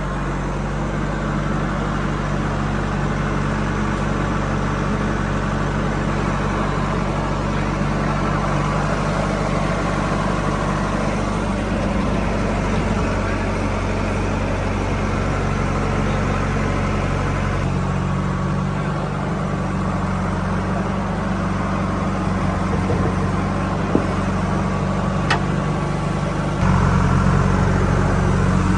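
Heavy diesel engine running steadily, with a couple of short ticks late on and the engine note shifting and getting louder near the end.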